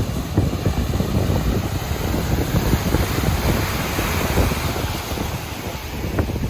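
Wind buffeting the microphone over the steady rush of breaking surf, with the surf swelling slightly about halfway through.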